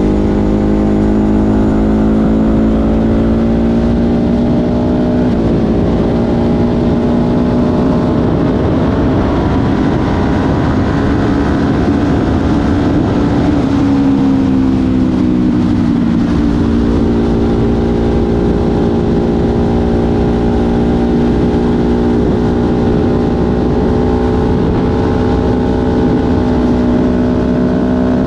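Ducati Hypermotard 950 SP's 937 cc L-twin engine running through an SC Project exhaust under way. Its note climbs slowly, dips briefly about five seconds in, climbs again, falls for a few seconds around halfway as the bike slows, then holds steady.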